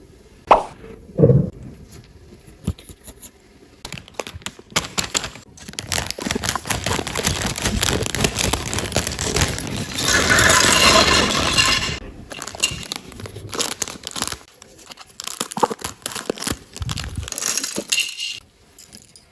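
Plastic LEGO pieces and packaging being handled: many small clicks and knocks with crinkling, the loudest stretch of crinkling about ten to twelve seconds in.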